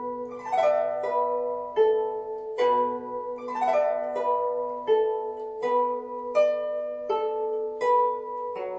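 Guzheng (Chinese zither) playing a slow, steady melody: single plucked notes ring on, one about every 0.8 seconds. Twice, about half a second in and again about three and a half seconds in, a quick glissando sweeps across the strings.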